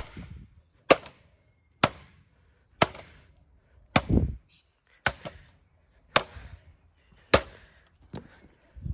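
Repeated hard blows struck on a vintage Hoover desk fan, about one a second, each a sharp crack with a short rattle after it. One heavier, deeper thud comes about four seconds in.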